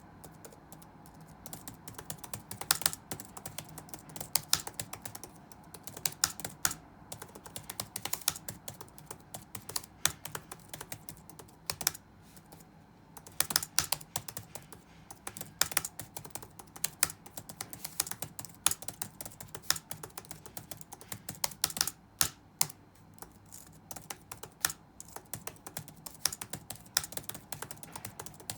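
Touch-typing on a computer keyboard: irregular runs of key clicks with brief pauses, one longer pause about twelve seconds in, over a faint steady background hum.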